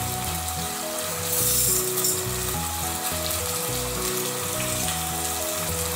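Wet green mung beans, onions and green chillies sizzling steadily in hot oil in a pan, with background music playing over it.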